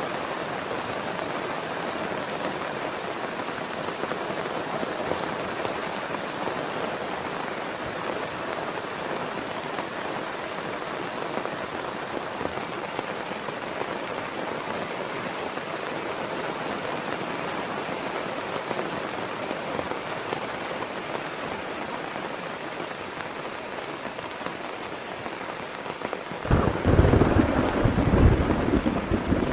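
Heavy rain falling steadily, then about 26 seconds in a loud, deep rumble of thunder breaks in and carries on to the end.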